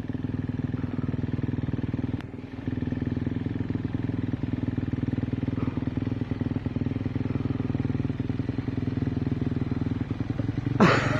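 Dirt bike engine running at a steady pitch, its level dipping briefly about two seconds in. A sudden loud sound breaks in just before the end.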